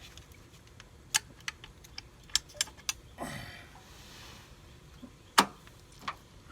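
Metal hand tools and bolts clinking as they are handled: a run of sharp clicks, a short sliding scrape a little after three seconds in, and a louder clank past the middle.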